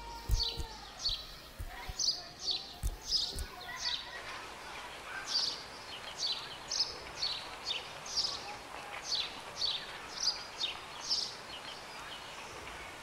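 A bird chirping over and over, short high chirps falling in pitch at about two a second, over a steady outdoor hiss. A few dull low thumps in the first few seconds.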